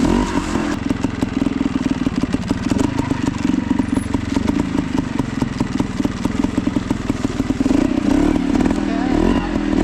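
Two-stroke trials motorcycle engine running at low revs with a rapid crackling, popping firing and some mechanical clatter, the throttle swelling slightly near the end.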